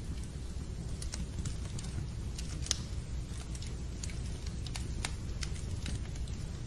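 Wood fire crackling in a fireplace: irregular sharp pops over a steady low rumble, with one louder pop a little under three seconds in.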